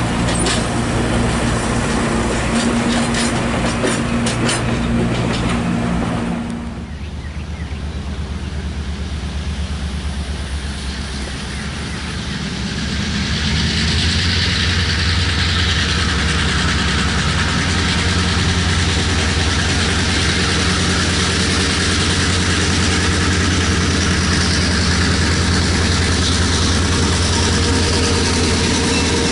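A train running on the rails: a steady low hum with rapid wheel clicks for the first few seconds, then, after a sudden change, a steady low drone with rushing noise that grows louder from about the middle on.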